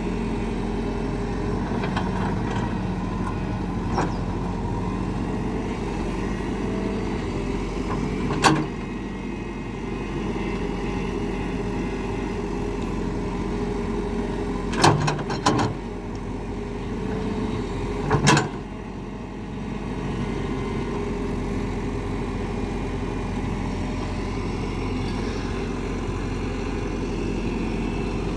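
Excavator's diesel engine running steadily, with a sharp knock about eight seconds in, a quick pair of knocks around fifteen seconds, and another near eighteen seconds.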